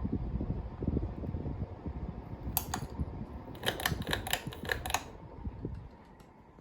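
52-inch Quorum Venture ceiling fan running, its air buffeting the microphone as a fluctuating low rumble that fades away near the end. Two sharp clicks come about two and a half seconds in, and a quick run of about eight clicks follows about a second later.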